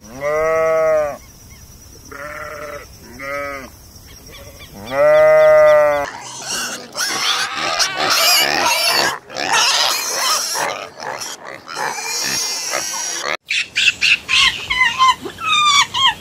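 An animal calling four times: drawn-out, pitched cries that each rise and then fall, the last one the longest and loudest. Then comes a stretch of noisy sound and a quick run of sharp clicks near the end.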